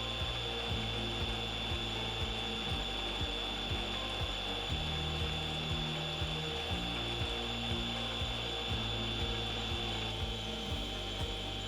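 Metal lathe running with its power feed engaged: a steady gear whine with a regular ticking from the drive, about two ticks a second.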